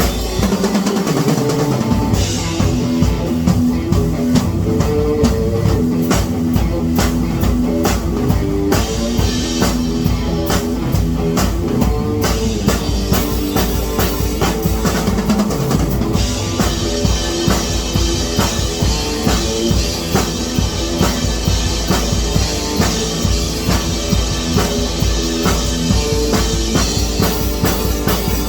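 Rock music with a drum kit playing a steady beat over sustained pitched instrument notes.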